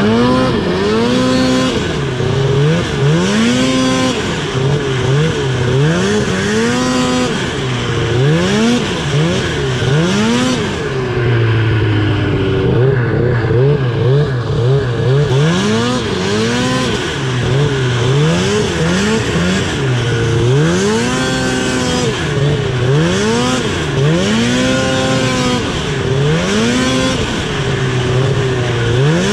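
2000 Ski-Doo Summit 700 snowmobile's two-stroke twin engine revving up and down over and over under throttle, about one rise every one and a half to two seconds. It settles to a lower steady note for a couple of seconds near the middle.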